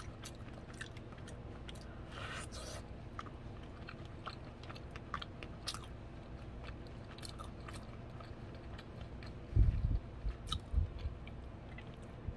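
A person chewing boiled waxy corn kernels, with small wet clicks and crunches scattered throughout. A few dull low thumps come about ten seconds in.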